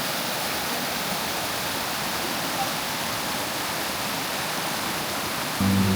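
Steady rush of flowing water, like a river or stream running over rocks. Music with a low bass line comes in near the end.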